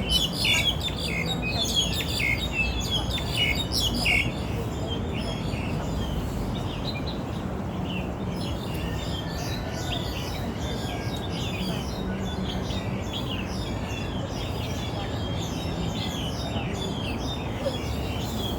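Birds chirping: many short, high chirps overlapping, loudest and most crowded in the first four seconds, then a steady chorus of chirps over a low background rumble.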